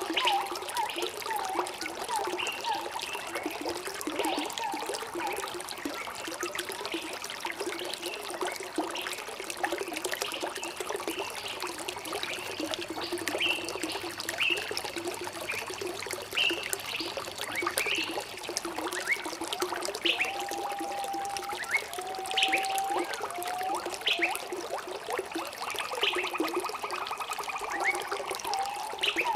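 Water trickling and bubbling steadily, with many short chirping bird calls throughout and a few longer held notes.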